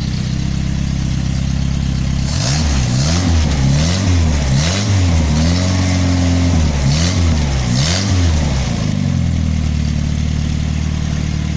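Toyota 4K 1.3-litre pushrod four-cylinder engine, freshly repaired, idling, then revved up and down about seven times with one short hold near the middle, before settling back to a steady idle.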